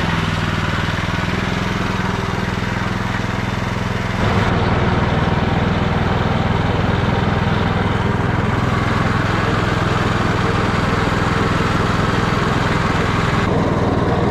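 Small petrol engine running steadily, a step louder from about four seconds in.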